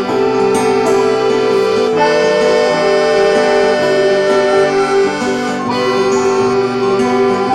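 Instrumental passage of an indie-folk band's song: sustained chords of held notes over a bass line that steps to a new note every second or so, with no singing.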